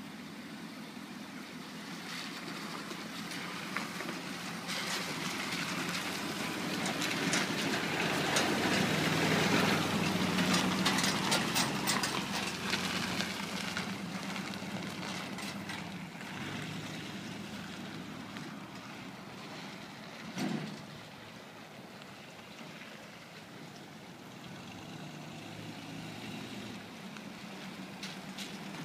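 1956 Chevrolet snub-nose truck running, growing louder to a peak about eight to thirteen seconds in with rattling, then easing back to a steadier, quieter run. A brief loud sound stands out about twenty seconds in.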